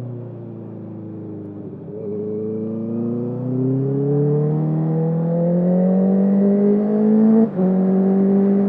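2021 Honda CB650R's inline-four through a full Akrapovic exhaust without its dB killer, heard from the rider's jacket: the engine note falls off briefly, then rises steadily as the bike accelerates. Near the end the sound cuts for an instant and drops in pitch as the quickshifter takes an upshift, and the engine pulls on in the higher gear.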